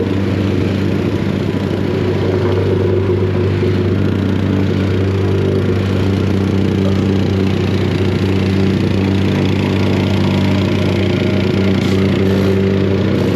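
An engine running steadily at constant speed, a loud, unchanging low hum.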